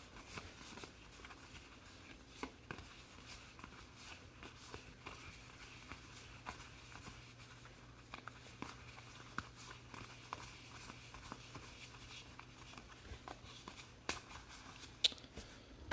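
Faint clicks and light rustles of trading cards being handled and flipped through, with a louder click near the end, over a low steady hum.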